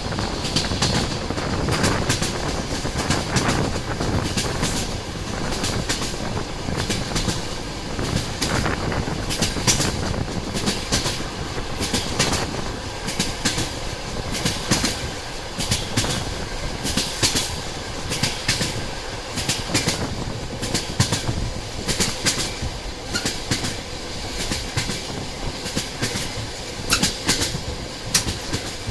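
Railway train running steadily, its wheels clacking over rail joints in frequent sharp clicks above a continuous rumble.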